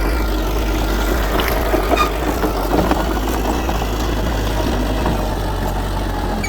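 Diesel engine of heavy earthmoving machinery running steadily, with a few light rattles and clanks between about one and three seconds in.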